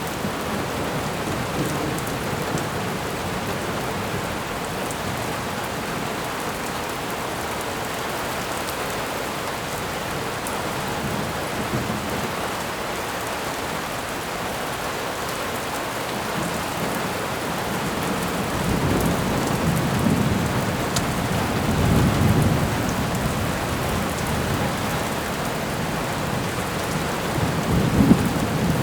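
Steady rain with thunder rumbling, the low rumbles growing in the second half and loudest about two-thirds of the way through and again near the end.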